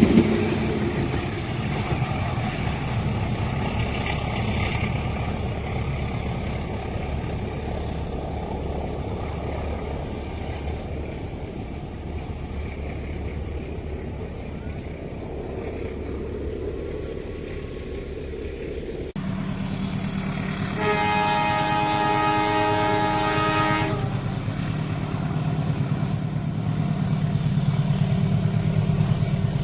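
A passing train's cars rumble steadily along the track. After a sudden cut, a locomotive engine runs with a low hum, and a multi-tone train horn sounds one steady blast of about three seconds.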